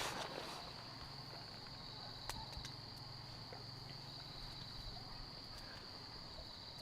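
Night insects trilling on one steady, high, unbroken note, over a faint low hum. A single sharp click sounds a little over two seconds in.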